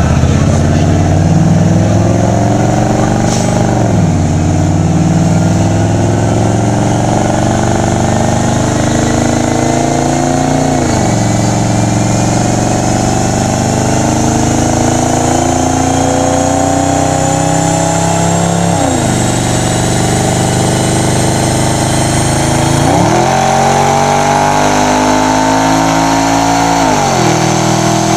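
Audi RS6 4.2-litre twin-turbo V8, with APR tune and custom exhaust, under full load on a chassis dyno. Revs climb steadily and drop back sharply at each gearshift, three times; near the end they jump, hold and fall away. A faint whine from the tyres and rollers rises steadily in pitch as road speed builds.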